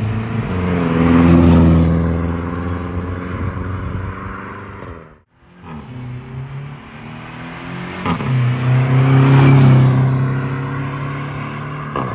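Skoda Rapid 1.4 turbo four-cylinder, with a downpipe and a vacuum exhaust valve, driving past twice. Each time the exhaust note swells as the car comes near and fades as it goes. The sound is more like a Subaru than a typical VAG car.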